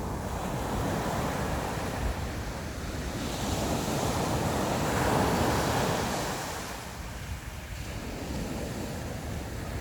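Sea waves washing ashore, one wave swelling up about three seconds in, peaking around five seconds and falling away, with wind rumbling on the microphone.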